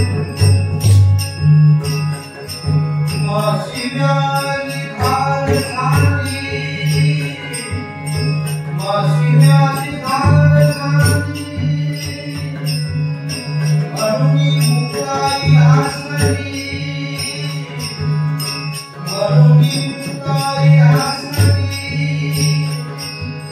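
Warkari bhajan: a singer's devotional phrases come round every few seconds, over continuous small hand-cymbal (taal) clashing and a steady low drum beat.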